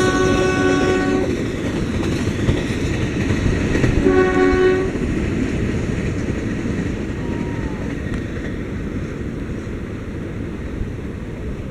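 Train horn sounding twice, a multi-tone chord: the first blast ends about a second in, the second is short, about four seconds in. Under it the train runs past with a steady rumble and clatter of wheels on rails that slowly fades.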